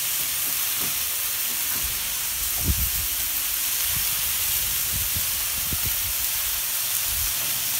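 Diced chicken breast and onions sizzling in olive oil on a Camp Chef flattop griddle: a steady frying hiss. A few low thumps come in nearly three seconds in.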